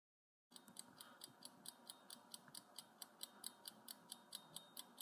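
Faint ticking-clock countdown sound effect, even ticks about four to five a second, starting about half a second in.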